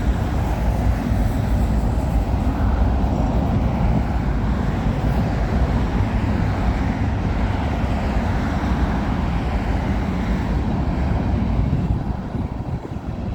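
CN freight train rolling past, a loud steady rumble of wheels on rail that eases slightly near the end.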